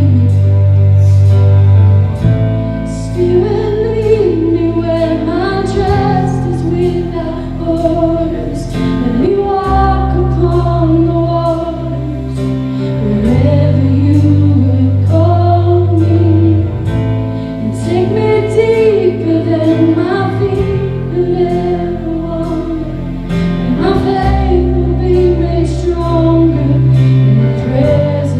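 Live worship music: a band holding sustained chords that change every few seconds, with a singer's melody above, including a woman's voice.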